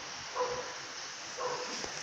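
A dog barking twice, about a second apart, over a steady background hiss.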